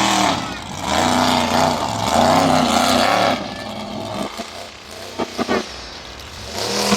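Monster truck engine revving in repeated rising and falling blips, dropping to a lower, quieter background about three and a half seconds in, with a few short sharp clicks.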